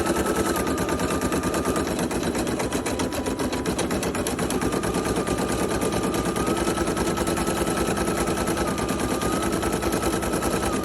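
Brother PE800 embroidery machine stitching at speed: a fast, even needle clatter with a thin motor whine that shifts slightly in pitch now and then.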